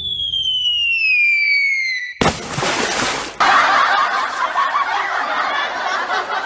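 Cartoon sound effects: a whistle slides down in pitch for about two seconds, a short crash follows, and then a long stretch of giggling laughter.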